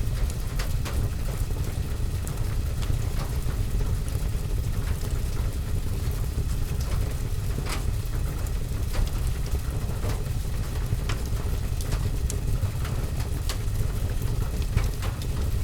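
Fireplace and rain ambience: a steady low rumble of rain on a window and roof, with scattered sharp crackles and ticks from the fire and raindrops throughout.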